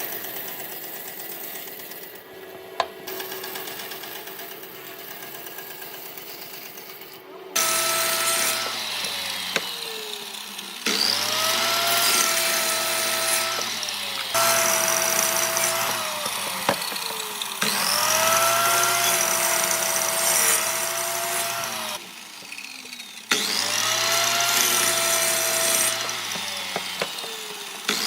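Electric power tool motor switched on and off about five times in a row from about seven seconds in: each time it spins up with a rising whine, runs steadily for a few seconds, then winds down. Before that, a quieter steady machine hum with a single sharp click.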